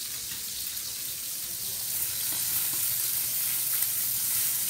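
Chicken thighs and sausages sizzling in hot oil in a stainless steel pan, stirred with a plastic spatula. The sizzle grows louder about two seconds in.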